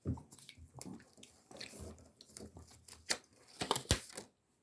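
Close-up mouth sounds of eating a chewy candy stick from its plastic wrapper: sucking and chewing, heard as a run of irregular wet clicks and smacks, strongest near the end.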